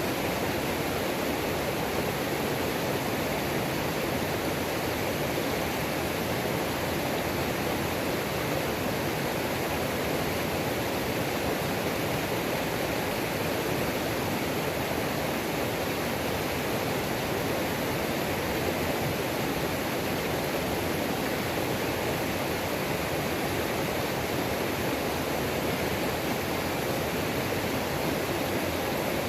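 Mountain creek water falling and rushing over rocks in a steady, unbroken roar.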